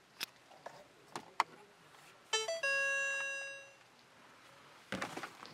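Ford Aspire's dashboard chime: a quick run of short rising notes, then one ringing tone that fades out over about a second. A few faint clicks come before it and near the end.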